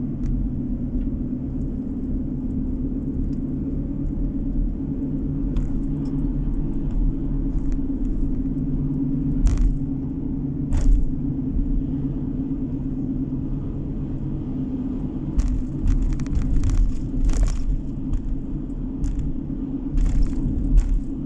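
Road and engine noise of a moving car heard from inside the cabin: a steady low rumble, with scattered short knocks and rattles, more of them in the second half.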